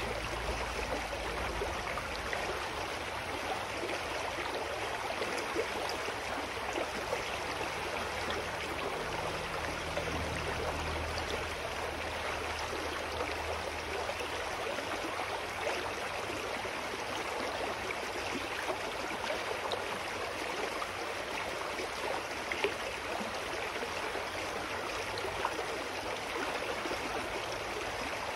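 Mountain stream flowing steadily, an even rushing and babbling of water with no breaks. A faint low hum rises under it for a few seconds in the middle.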